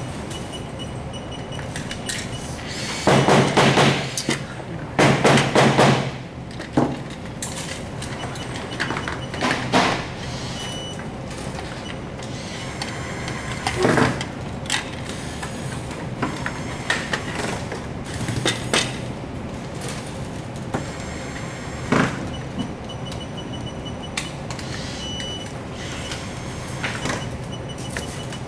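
Workshop metalworking noise: two loud noisy bursts of about a second each a few seconds in, then single sharp knocks every few seconds over a steady background hum.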